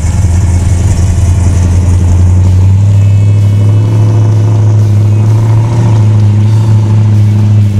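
1969 Plymouth Road Runner's V8 engine running at a steady speed, a loud, even low note with no change in pitch.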